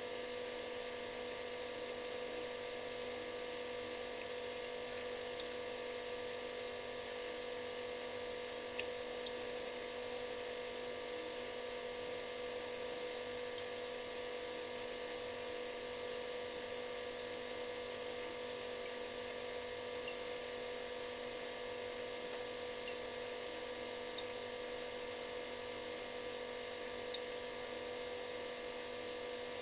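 Refrigerator running: a steady electrical hum with a faint hiss over it, unchanging throughout.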